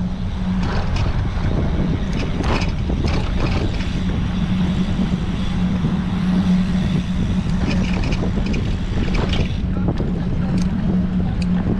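Wind buffeting the microphone of a bicycle-mounted action camera while riding, a steady low rumble with a constant hum and scattered light clicks.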